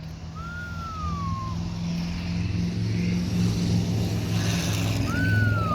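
A 1992 Chevrolet 454 SS pickup's 7.4-litre big-block V8 running steadily, its low note growing stronger about a second in. A high whistle falling in pitch sounds twice, near the start and near the end.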